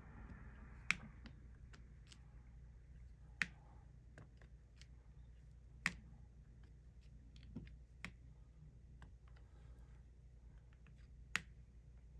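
Diamond painting pen picking up and pressing resin drills onto the sticky canvas: light plastic ticks and taps, with five sharper clicks a couple of seconds apart.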